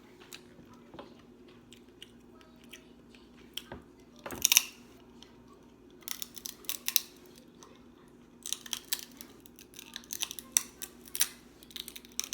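Close-miked mukbang eating of snow crab and shrimp: chewing and crunching with quick clicks, coming in clusters, and one loud crunch about four and a half seconds in.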